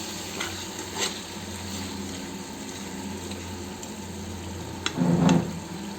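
Chicken curry sizzling in a pan as it is stirred, with a few light clicks of the spoon against the pan. A louder clatter comes about five seconds in.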